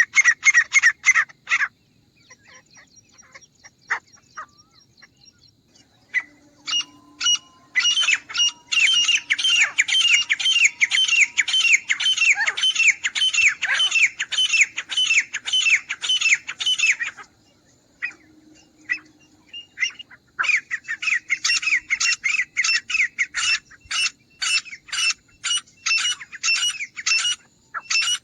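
Grey francolin calling: loud, rapid repeated notes, about three a second, in long runs broken by pauses of a few seconds.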